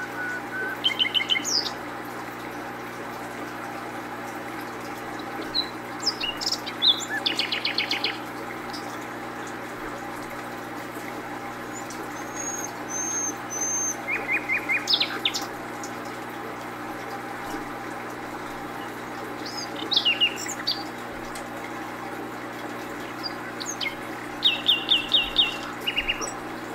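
Small birds chirping in short runs of quick, repeated high notes, a few seconds apart, over a steady background hum.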